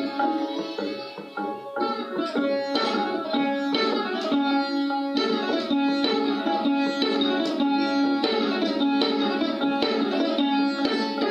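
Indian classical plucked string instrument playing raag Kirwani: a quick run of plucked, ringing notes over a persistent lower note.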